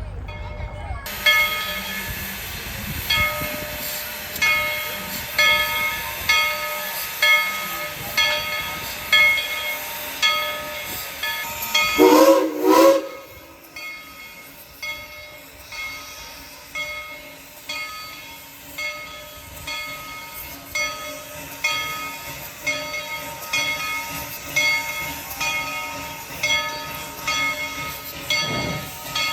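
Steam locomotive's bell ringing steadily at about one and a half strokes a second over a hiss of steam, with a short steam whistle blast about twelve seconds in.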